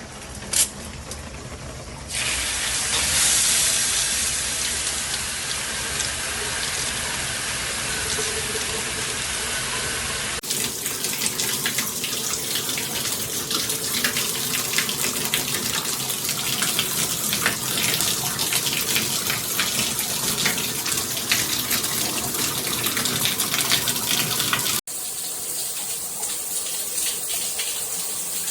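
Handheld shower head spraying water in a steady hiss, which comes on about two seconds in after a couple of sharp clicks. The sound changes abruptly twice along the way.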